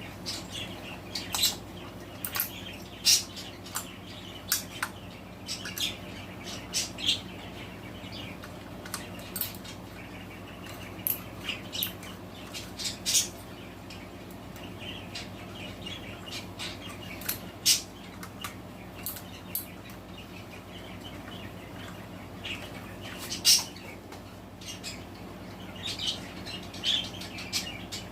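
Small pet birds chirping and squawking in short, irregular calls over a steady low hum.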